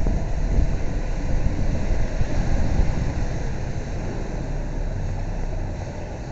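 Steady wind rush over the microphone with a low road rumble, from riding along a road at speed.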